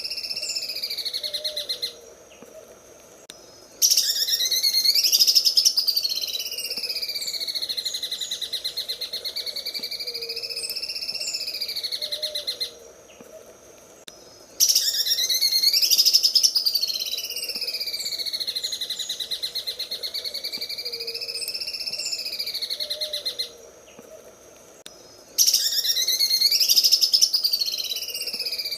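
Green leafbird (cucak ijo) singing its rapid, machine-like 'sewing machine' trill: a fast rattle that swings slowly up and down in pitch. The trill breaks off for about two seconds three times and comes back loudest right after each restart, with faint high chirps from other birds behind it.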